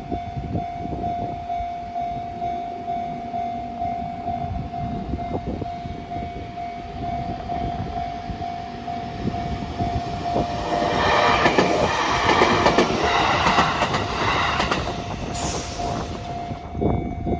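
Japanese level-crossing warning bell ringing on one steady tone, then a train passing over the crossing about ten seconds in. The train is loud for some six seconds with wheels clattering, and its sound ends abruptly near the end.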